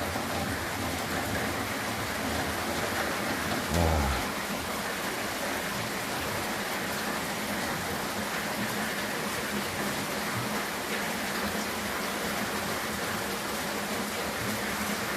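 Heavy rain falling steadily, coming down hard, with a brief low thump about four seconds in.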